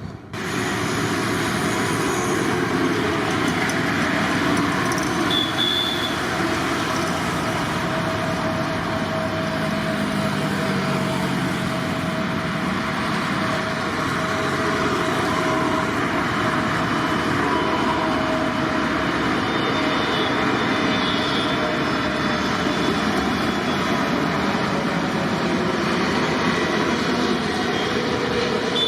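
Jet airliner's engines at take-off power: a loud, steady noise with a few steady whining tones over it. It starts abruptly just after the beginning.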